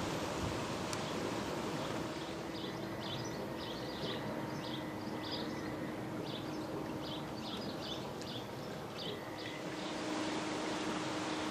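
Small birds chirping in quick irregular bursts from about two and a half to nine and a half seconds in, over a steady outdoor noise with a faint low hum.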